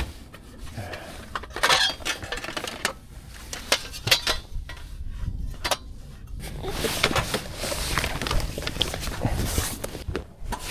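Metal pots and parts of a camping cook set clinking and knocking together as the set is handled and set up, in a string of short, light clinks and knocks.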